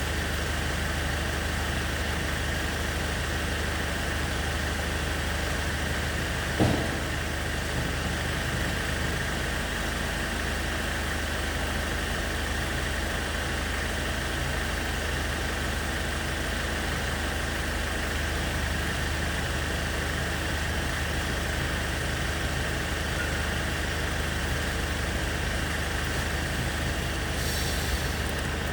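A car engine idling steadily, with one sharp knock about seven seconds in.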